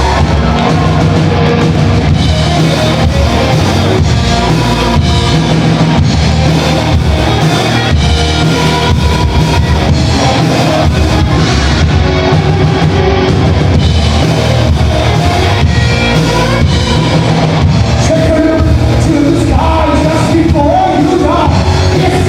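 Live rock band playing loudly: drum kit, electric guitar and bass with a singer, the voice standing out more clearly near the end.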